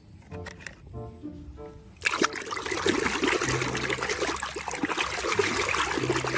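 Short plucked string-music notes, then about two seconds in a stream of running water starts suddenly and keeps going loudly: water rinsing mud off a toy.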